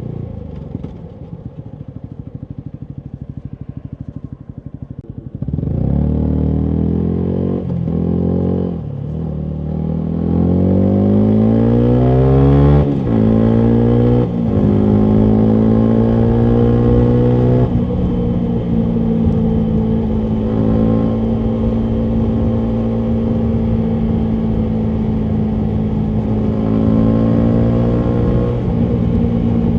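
Yamaha MT125's single-cylinder four-stroke engine through a full Akrapovic exhaust, idling for the first few seconds. About five seconds in it pulls away, revving up through the gears with a brief dip at each upshift, then settles into a steady cruise.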